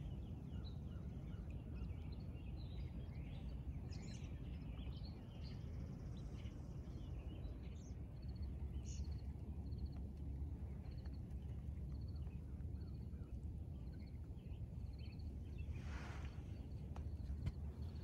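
Several birds chirping and calling over a low, steady rumble; through the second half one bird repeats a short, high call about once a second. A brief rushing sound comes near the end.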